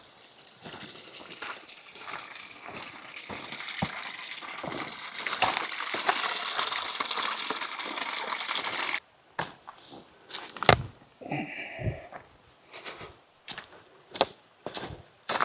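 Hiking boots on loose, rocky trail, stones crunching and clinking underfoot. The crunching grows louder and denser, cuts off suddenly about nine seconds in, and gives way to slower, separate steps on rock.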